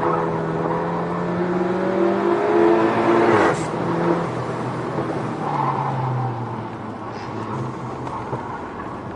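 Turbocharged four-cylinder engine of a SEAT Cupra heard from inside the cabin under hard driving on track: the engine note climbs for the first three seconds, a sharp crack comes with an upshift about three and a half seconds in as the pitch steps down, then the engine runs at lower revs and eases off a little near the end.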